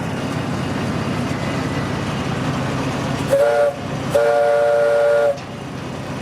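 Narrow-gauge tourist train running, with a steady rumble and rail clatter heard from aboard. Its horn sounds a short toot, then a longer blast of about a second.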